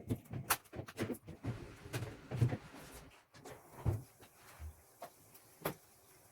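Scattered clicks and light knocks at an uneven pace, louder ones about half a second, two and a half, four and near six seconds in.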